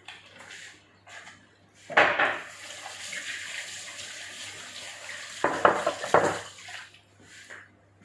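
Kitchen tap running into a sink for about five seconds, starting about two seconds in, with a clatter as it starts and a few more knocks of kitchenware near the end.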